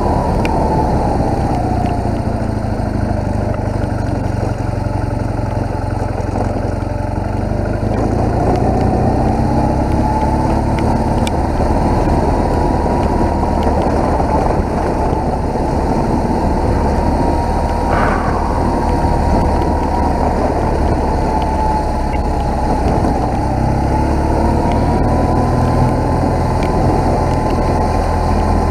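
BMW motorcycle engine under way: it drops in pitch off the throttle at the start, picks up again and holds steady, then eases off and rises once more near the end, over a steady rush of wind and road noise.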